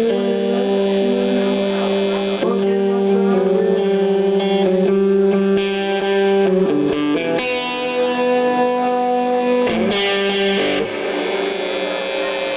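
Electric guitar through effects, played live, ringing out slow sustained notes and chords that change every few seconds, without drums.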